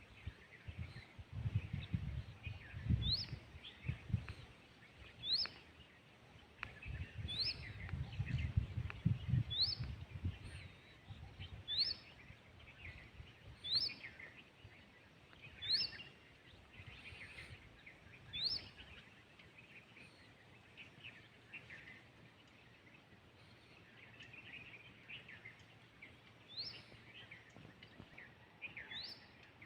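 Small birds chirping outdoors: a short, sharply rising chirp repeats about every two seconds among softer twittering. A low rumbling noise runs under the first two-thirds and then stops.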